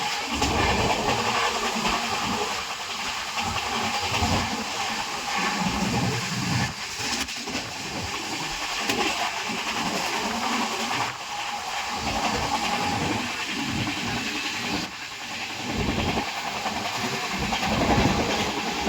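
Heavy rain pouring down, a steady hiss, with uneven low rumbling underneath.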